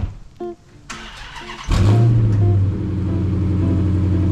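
2023 Dodge Challenger R/T Shaker's 5.7-litre HEMI V8 starting up: the starter cranks briefly, then the engine catches about a second and a half in with a short rev flare. It settles into a steady idle.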